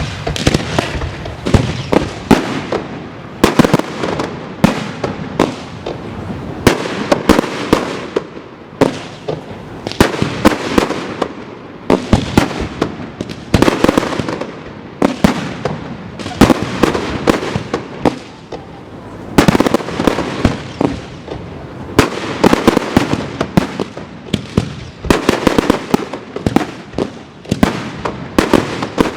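Fireworks going off in quick succession: a steady stream of sharp bangs, several a second and irregularly spaced, without letup.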